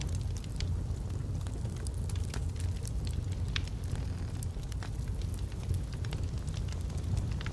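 Wood fire burning in a fireplace: logs crackling with scattered sharp pops over a steady low rumble of the flames.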